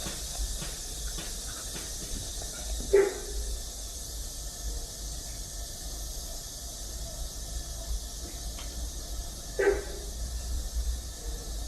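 A kitten meows twice, short falling cries about six seconds apart, over a steady high hiss and a low rumble.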